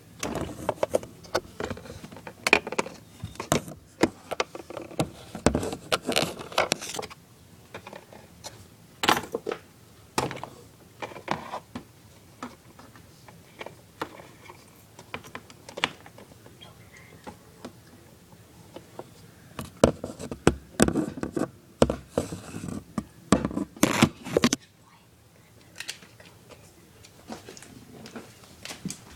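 Irregular clicks, taps and clatter of small plastic toy pieces being handled and fitted together, busiest at the start and again in a burst later on, with quieter gaps between.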